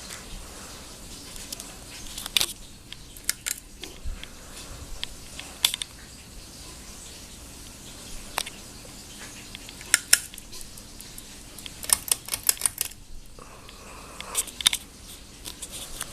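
Hunter Santa Barbara ceiling fan running with a low steady hum, over which come scattered sharp clicks and several short bursts of quick rattling ticks.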